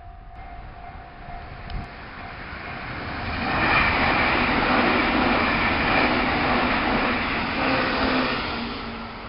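Meitetsu electric train passing at speed: the rumble of wheels on the rails builds over a few seconds, stays loud for about five seconds, then fades away.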